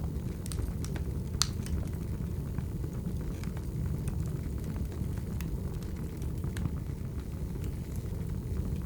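Wood fire crackling: firewood burning with a steady low rumble and scattered sharp pops and snaps, one louder pop about a second and a half in.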